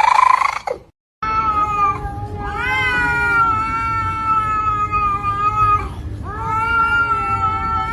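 A cat meowing and yowling: first a short rising meow, then two long, drawn-out yowls held at a steady pitch for several seconds each, the second beginning about six seconds in.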